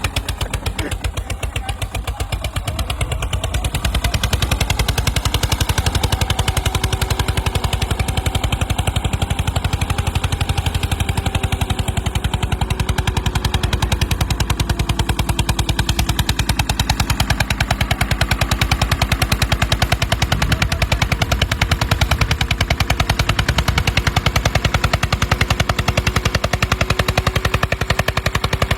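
Diesel tractor engine running with a rapid, even exhaust beat, getting a little louder about four seconds in.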